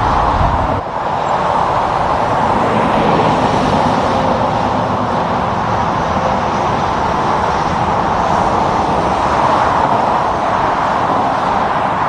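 Steady roadside traffic noise from vehicles passing on a highway, with tyre and engine noise. A heavy low rumble drops away about a second in.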